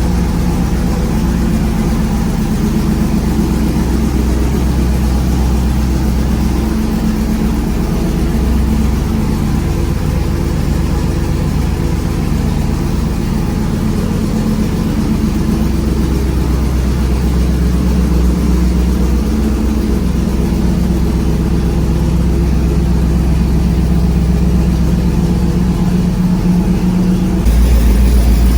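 Car engine running steadily with a deep low note, its pitch easing up and down a little at times. Near the end it changes abruptly to a louder, deeper engine sound.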